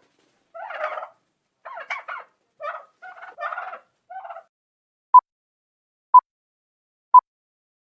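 Turkey gobbling in several rapid rattling bursts, followed by three short electronic beeps a second apart, a countdown timer.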